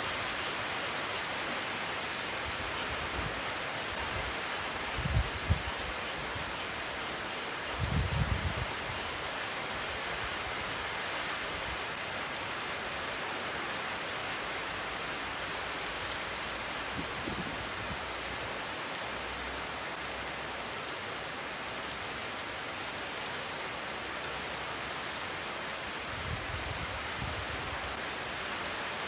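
Steady rain falling in an even hiss. A few brief low rumbles of wind buffet the microphone, about five and eight seconds in and again near the end.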